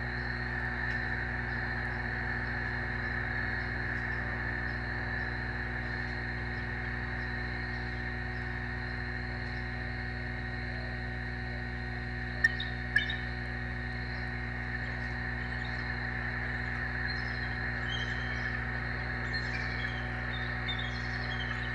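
Short bird chirps over the last few seconds, over a steady outdoor hiss and hum, with two sharp clicks about halfway through.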